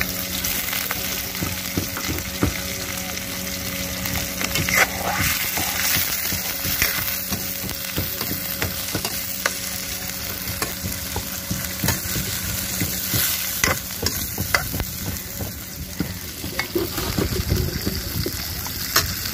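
Chopped onion and green chillies sizzling as they fry in hot oil, stirred steadily, with many short knocks and scrapes of the stirrer against the pot.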